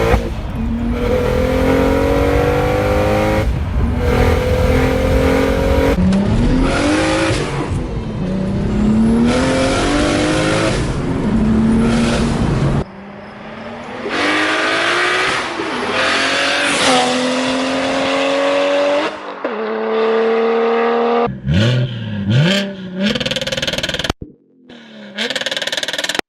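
Single-turbo BMW 335i's N54 inline-six engine pulling hard under acceleration. The pitch climbs and then drops several times, as if going up through the gears.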